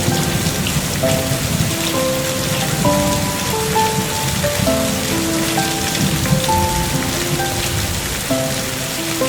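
Steady rain falling, with a slow melody of single held notes playing over it.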